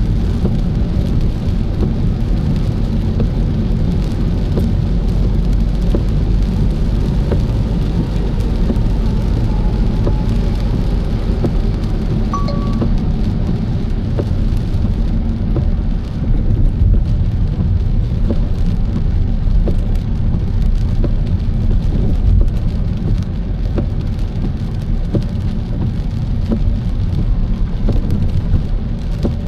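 Rain hitting a moving car, heard from inside: a steady low road and engine rumble under a hiss of rain and many small drop clicks. A brief single tone sounds about twelve seconds in.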